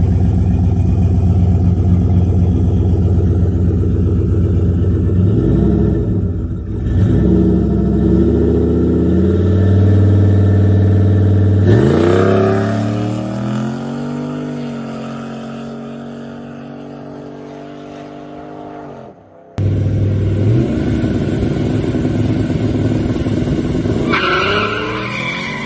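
Street drag cars' engines running loud at the line with a couple of quick revs, then one car launching hard and accelerating away, its sound fading over several seconds. After a sudden cut, another engine runs and revs near the end.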